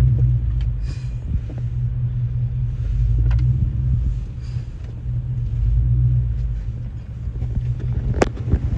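Straight-piped Jeep Grand Cherokee exhaust rumbling as the Jeep moves off at low speed, the rumble swelling twice as the throttle is pressed. A sharp knock sounds near the end.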